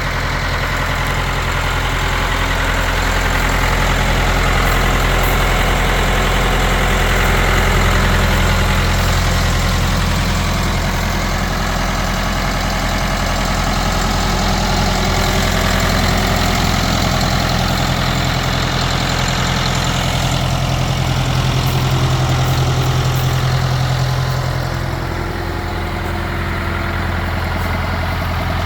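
1986 Ford 7610 tractor's four-cylinder diesel engine running steadily at idle, easing slightly in level near the end.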